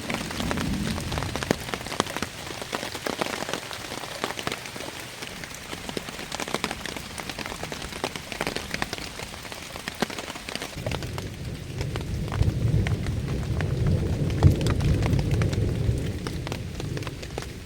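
Heavy rain falling in a steady patter of many drops, with a low rumble of thunder rolling in about eleven seconds in and lasting around five seconds.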